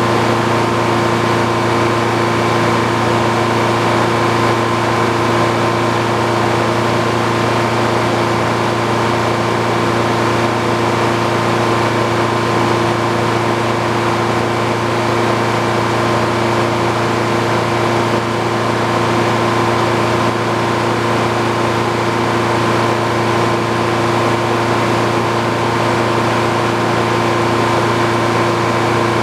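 Old Frick sawmill running at a steady speed, a constant mechanical hum with no change in pitch or load.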